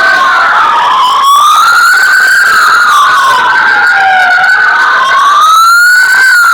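Fire truck siren wailing very loud, its pitch rising and falling slowly over a couple of seconds each way. A second wail overlaps it near the start.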